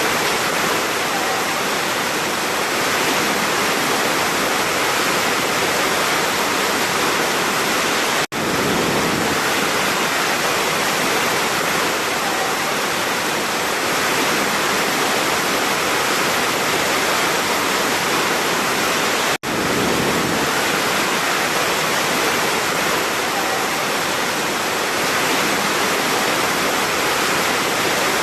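Steady rushing water of a large waterfall, an even, dense noise. It cuts out for an instant twice, about eight and nineteen seconds in.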